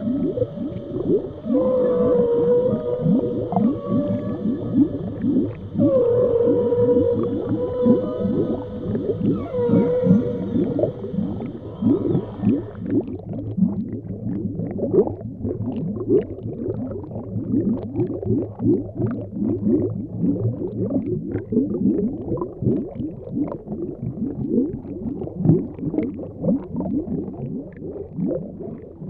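Underwater whale vocalizations. Long pitched moans with a few gliding notes fill about the first thirteen seconds and then stop. Under them, a dense run of short, downward-sweeping calls continues throughout.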